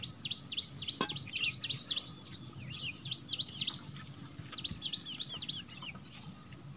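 Birds chirping continuously in quick, high, rapid-fire chirps, with a single sharp click about a second in.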